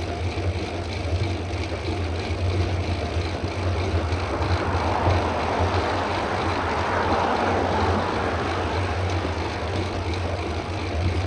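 Wind rushing over the microphone of a camera on a moving bicycle, with a steady low rumble and an even hiss that swells in the middle.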